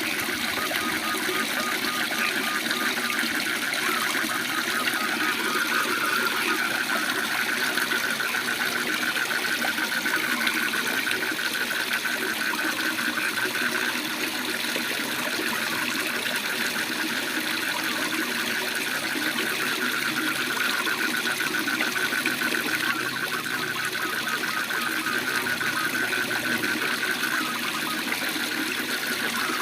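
Waterfall rushing steadily, with frogs calling in a fast pulsing trill at one steady pitch through most of the stretch.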